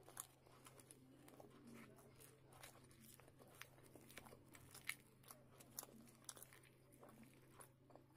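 Faint chewing and wet mouth clicks of someone eating luchi dipped in chana curry, with sharp little clicks coming irregularly throughout.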